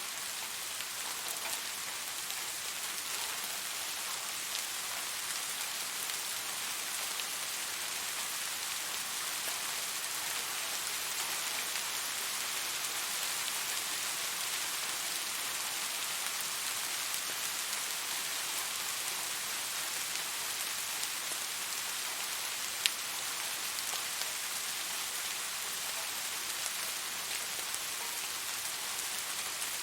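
Steady rain falling, an even hiss of many drops. One sharp tap stands out about three-quarters of the way through.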